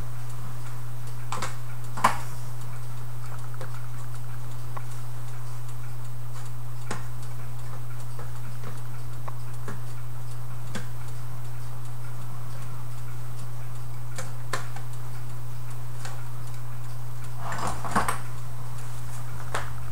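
Scattered light clicks and taps at irregular intervals from work on an antique clock, over a steady low hum.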